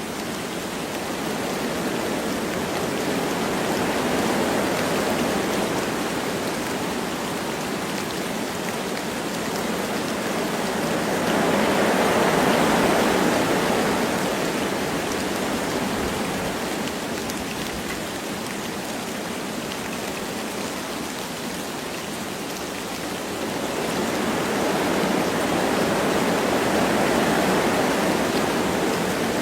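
Wind blowing through forest trees with light rain falling, a steady rushing noise that swells in slow gusts, the strongest about twelve seconds in and another near the end.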